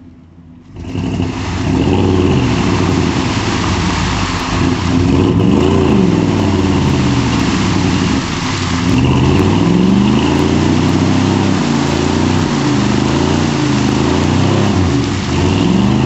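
Pickup truck engine revving, its pitch rising and falling again and again. It comes in after a quiet first second.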